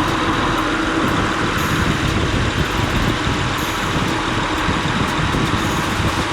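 Honda Accord's newly replaced radiator fan and AC condenser fan spinning together, a steady rush of moving air, over the V6 engine idling with the AC on. Both fans are working.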